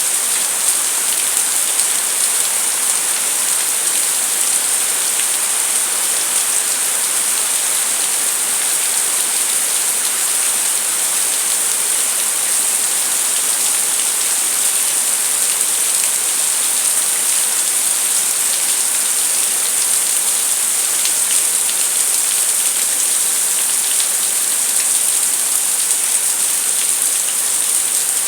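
Steady rainfall: constant hiss of rain with fine drops pattering on a surface, even in level throughout.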